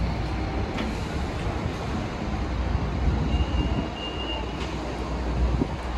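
PKP Express InterCity Premium train running with a steady low rumble and a few faint clicks. A thin high whine comes in about three seconds in and stops after about a second and a half.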